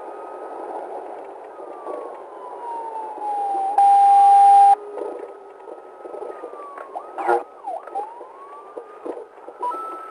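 Police car siren wailing, its pitch slowly rising and falling, with a loud steady blast lasting about a second about four seconds in.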